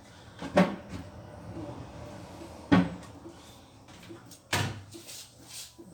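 Three sharp knocks about two seconds apart, the last a little longer and ringing, with lighter knocks and clatter between them.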